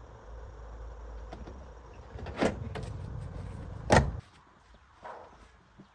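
Car door being opened and slammed shut: two sharp thumps about a second and a half apart, the second one louder. A low rumble stops as the door shuts.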